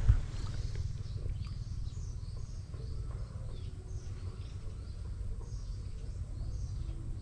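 A bird calling over and over in short high chirps, about one to two a second, above a steady low rumble. A single thump right at the start is the loudest sound.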